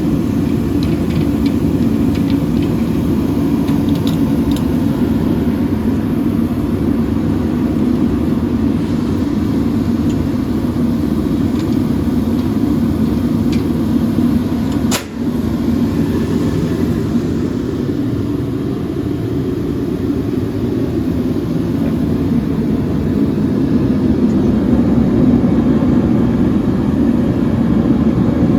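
Sealey IR55 infrared diesel/paraffin heater running: a steady, loud burner-and-fan rumble. A sharp click and a brief drop in level come about halfway through.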